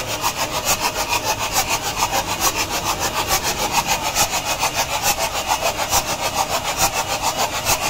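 Howo A7 380 truck's diesel engine idling with a rapid, even clatter that keeps a steady rhythm throughout.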